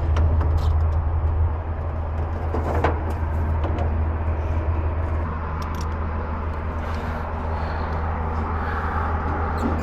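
Steady low rumble of machinery or traffic running, with scattered light clicks and knocks from work on the wiring in the electrical enclosure.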